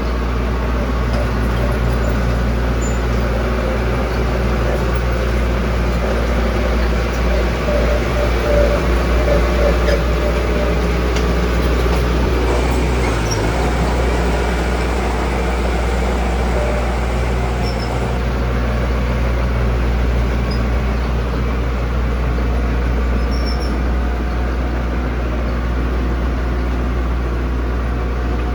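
Heavy diesel engine of road-construction machinery running steadily with a deep low hum, slightly louder for a couple of seconds near the middle.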